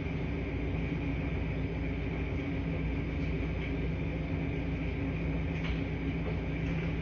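Laundry-room washing machines running with a steady low hum.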